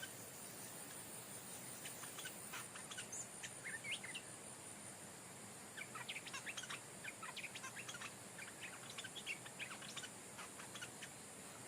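Stripe-throated bulbul song: bouts of short, quick notes, a brief one about three seconds in and a longer run from about six seconds, over a steady high insect drone.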